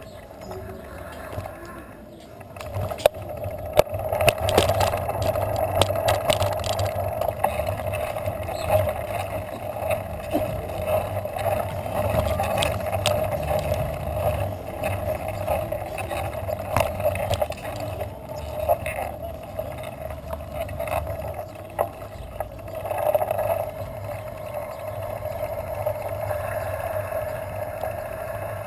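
Steady road, tyre and wind noise from a bicycle being ridden, with sharp rattles and knocks from bumps between about 3 and 7 seconds in.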